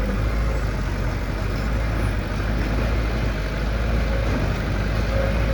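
Diesel engine of heavy construction machinery running steadily with a deep rumble.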